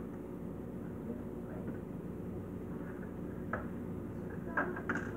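Steady low hum from a refrigerator, recorded from inside it, with a few light clicks or knocks near the end.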